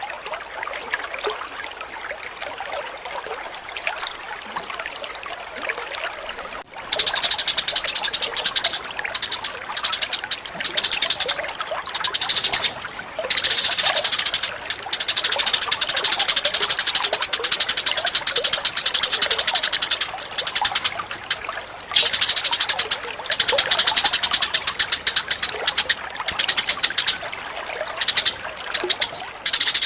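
Water trickling, then about seven seconds in a loud, very rapid, high-pitched chattering bird call starts. It runs in long bursts broken by short gaps. This is a bird-lure recording of chattering cage birds mixed over running water.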